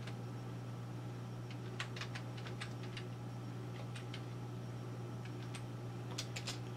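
Scattered small clicks and mouth noises from a person chewing pizza close to the microphone, a few around two seconds in and a quick cluster near the end, over a steady low hum.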